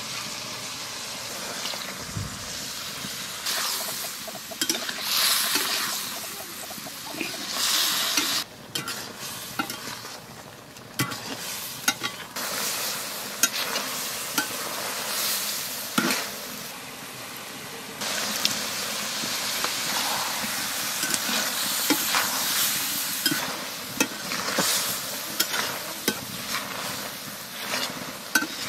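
Goat intestine curry sizzling and frying in a metal kadai, stirred with a metal spatula that scrapes and clicks against the pan. The sizzle swells and fades with the stirring.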